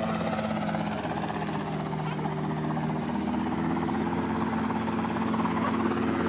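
An aircraft engine running with a steady drone that shifts a little in pitch about a second in.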